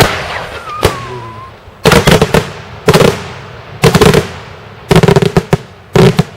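Daytime fireworks: a loud bang, then a falling whistle, then volleys of sharp bangs at about one volley a second, several cracks to each.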